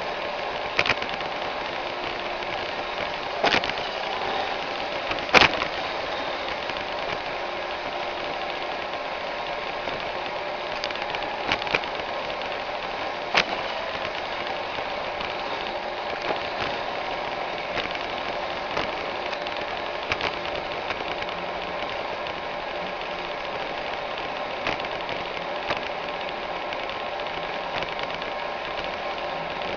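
iRobot Roomba 610 robot vacuum running steadily, its motor and brushes making a constant whirr, with sharp knocks now and then, the loudest about five seconds in.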